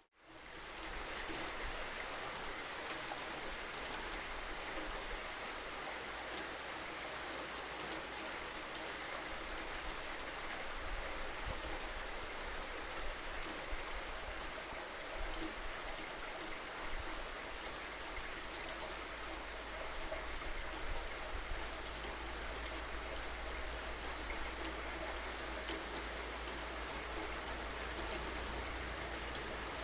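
Steady rainfall with scattered drop ticks on a surface and a steady low rumble underneath, after a brief drop to silence at the very start.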